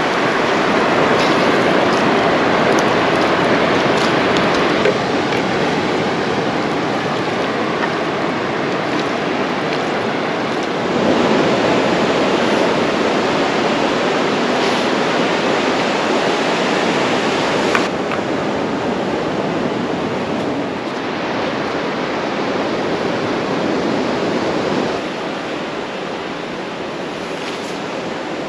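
Ocean surf washing onto a beach in a steady, loud rush. It swells louder about eleven seconds in and eases off near the end, with one brief click about two-thirds of the way through.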